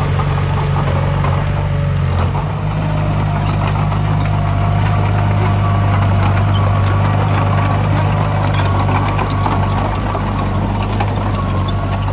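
Diesel engine of heavy earthmoving equipment running steadily under load, its note shifting about two seconds in, with a faint thin squeal and scattered small ticks over it.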